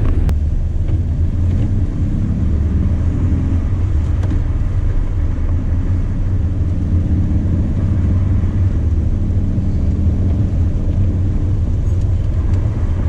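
Steady low rumble of a two-door Jeep Wrangler Sport driving on a snowy road, heard from inside the cab: engine, drivetrain and tyre noise at an even, unchanging level.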